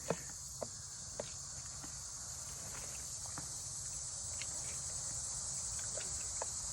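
Steady high-pitched chorus of insects, with a few faint clicks and taps, most of them in the first second or so.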